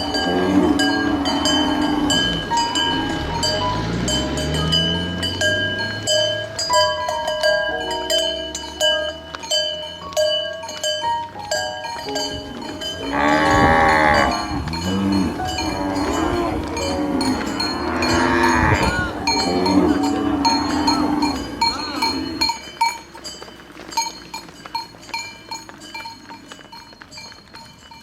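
Cattle mooing, several long calls, over the clanking and ringing of cowbells. It grows quieter near the end.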